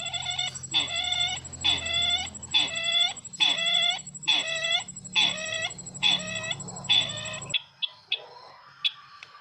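A recorded lure call of the bird known as sisintar ladang, repeated evenly about once every two-thirds of a second, eleven calls in all. The calls and a low background hum cut off abruptly together about seven and a half seconds in, leaving faint bird chirps.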